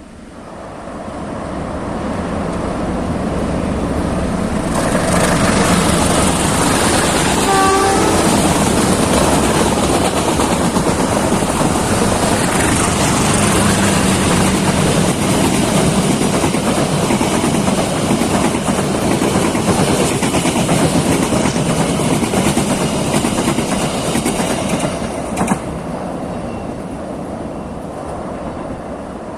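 A diesel-hauled train passing close by: rumble and wheel noise building over the first few seconds, staying loud for about twenty seconds, then easing off near the end. A short horn toot sounds about eight seconds in.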